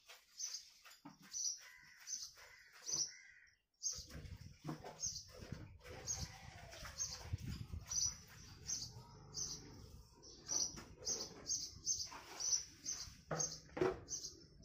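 A small bird chirping over and over, short high chirps about once or twice a second, over low handling noise with a few knocks near the end.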